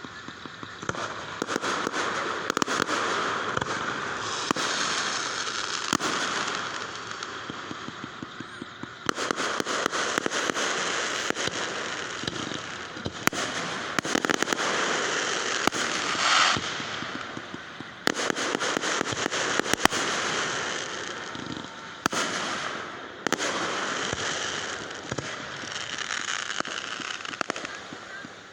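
Fireworks going off: dense crackling and popping in waves that keep restarting, with louder single bangs now and then.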